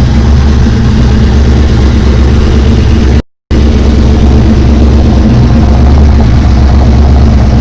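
Car engine idling loudly with a deep, steady rumble. The sound cuts out completely for a moment about three seconds in, then resumes unchanged.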